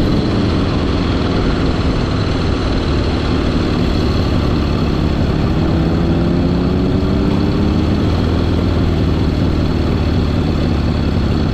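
1974 Harley-Davidson Sportster XLH Ironhead's air-cooled V-twin engine running steadily on the road, its pitch rising a little about two-thirds of the way through.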